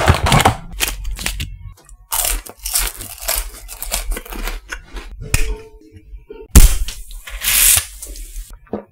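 Snack packaging being torn open and crinkled, with crunching, in a run of short crackles and longer tearing rips; the longest and loudest rip comes about two-thirds of the way through.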